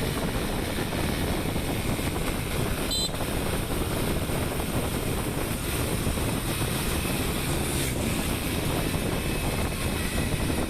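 Steady wind and road noise on a moving motorbike, with the engine underneath and wind buffeting the microphone.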